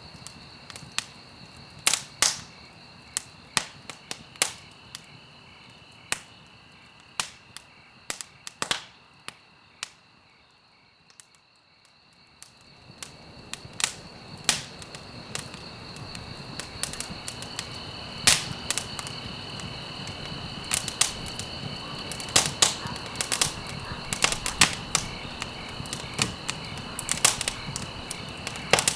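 Wood fire burning in a fireplace: sharp crackles and pops, several at a time and then scattered, over a low rush of flame. The fire sound dies down almost to quiet about ten seconds in, then swells back with more frequent pops.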